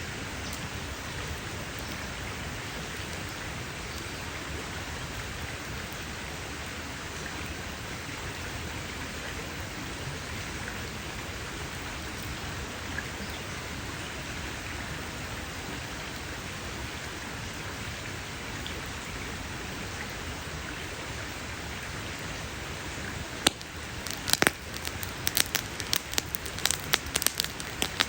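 Wood campfire burning with a steady hiss; about three-quarters of the way through, a quick run of sharp crackles and pops from the burning wood begins.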